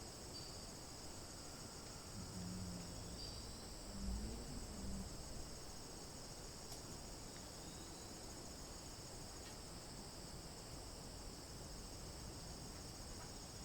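Steady high-pitched chorus of insects, cricket-like, with a few faint short falling chirps over it. A brief low rumble comes about four seconds in.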